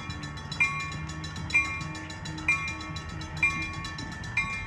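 Railroad grade-crossing bell ringing steadily, about one ring a second.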